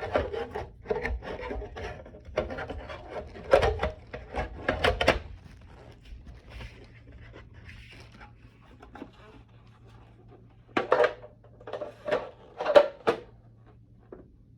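Plastic parts of a Crane elephant ultrasonic humidifier being handled: knocks, clicks and rubbing as the elephant's head is worked off the water tank. A run of knocks and scrapes fills the first five seconds, then a few sharper knocks come near the end.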